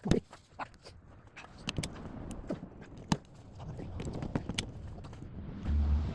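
Scattered sharp metal clicks, knocks and scrapes of hand tools being handled, a breaker bar with a long pipe extension, with a steady low rumble coming in near the end.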